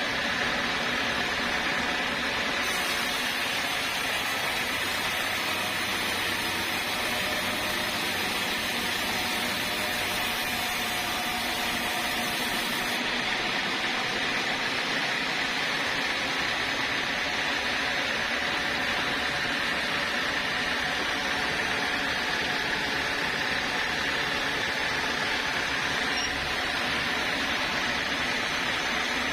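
Sawmill saw running steadily without a break, a constant mechanical noise with a faint high steady tone in it.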